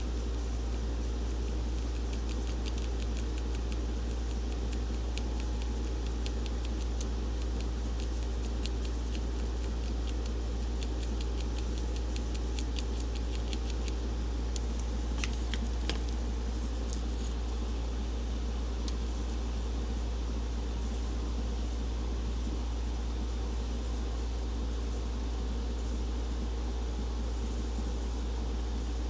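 Steady low mechanical hum with a few steady tones over it. Many light clicks and taps run through roughly the first two-thirds, then thin out.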